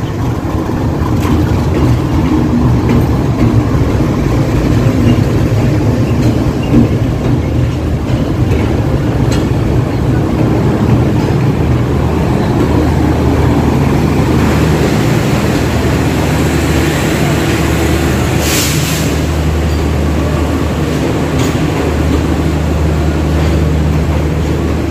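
A GE U40 diesel-electric locomotive's engine running steadily as it brings a passenger express into the station, with heavy rain falling, scattered clicks of wheels over rail joints, and a short hiss about three-quarters of the way through.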